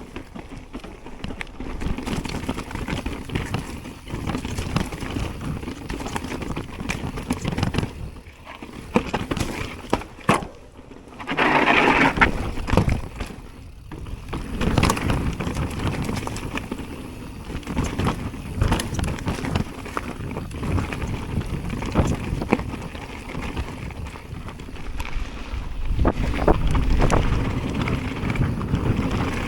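Jamis Hardline enduro mountain bike ridden down a trail: wind rushing over the microphone and tyres rolling on dirt, with scattered knocks and rattles over bumps. A louder rough rush comes about twelve seconds in.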